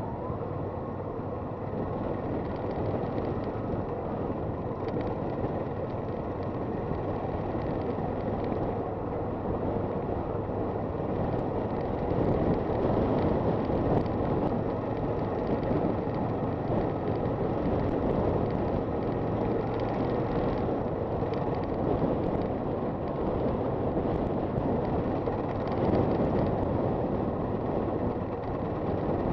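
Honda FT400 single-cylinder motorcycle under way, its engine running steadily under wind rush, with the engine note rising and falling a little.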